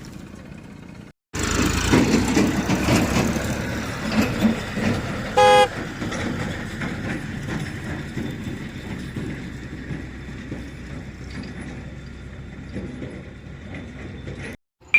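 A vehicle engine running, starting abruptly about a second in and slowly getting quieter, with one short horn toot about five and a half seconds in.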